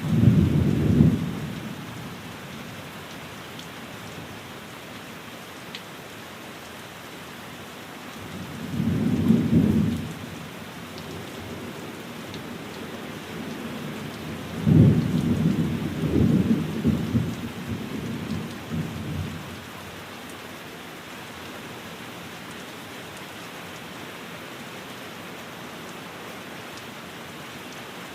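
Steady rain falling on a window, with three low rolls of thunder: a short rumble at the start, another about nine seconds in, and a longer rolling one from about fifteen to nineteen seconds in.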